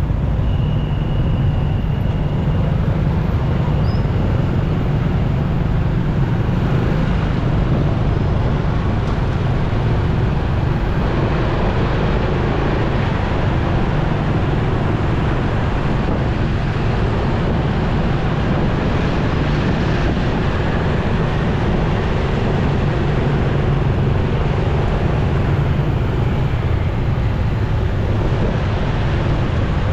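Motorcycle riding in city traffic: steady engine and road noise with a heavy low rumble.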